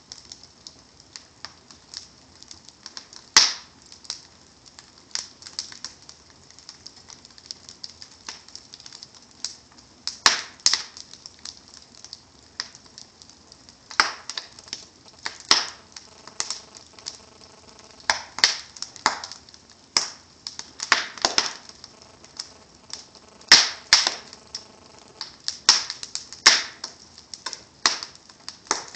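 Wood fire in a fireplace crackling: a steady scatter of small irregular clicks from the burning logs and embers, with a louder sharp pop or snap every few seconds.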